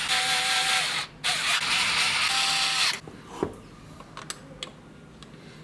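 Electric power-tool motor running in two short bursts, about a second and then about two seconds, with a brief pause between, each cutting off sharply.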